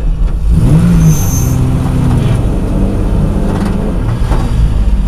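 Opel Ascona rally car's engine running at idle, heard from inside the cabin, with a short blip of revs about a second in and a brief high whine at the same moment.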